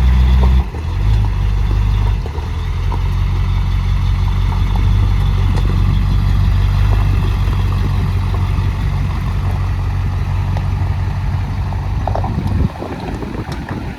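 Chevrolet Silverado 2500 HD pickup's V8 engine idling steadily, dropping to a lower, steadier idle about half a second in. The engine sound stops abruptly about a second before the end.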